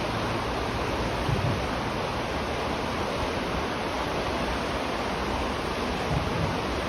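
River water flowing in a steady rush, heard from beneath a bridge, with a brief low surge about a second in and again near the end.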